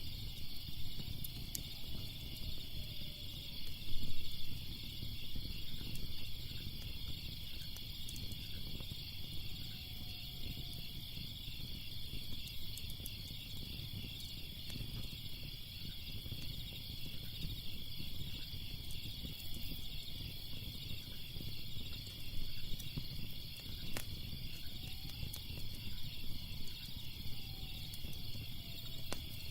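Crickets chirping steadily in a fast, even pulse, over the low rumble of a fire with a few sharp crackles and a louder pop about four seconds in.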